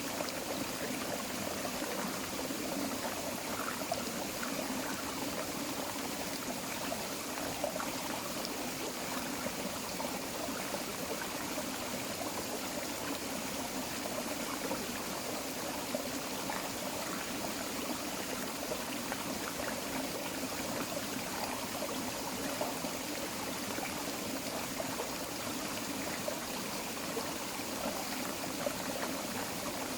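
Small creek flowing and trickling over rocks, a steady babble of running water.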